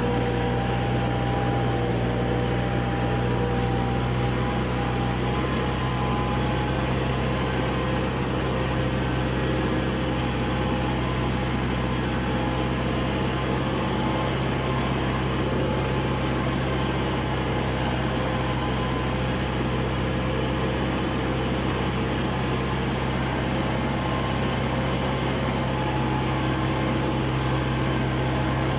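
Tractor engine running steadily, its pitch and loudness unchanging throughout.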